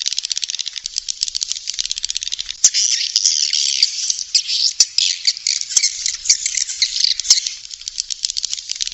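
Swiftlet lure-call recording: a dense, continuous chatter of rapid chirps and trills, with sharp clicks scattered through it. It is the kind of call played in swiftlet houses to draw the birds in.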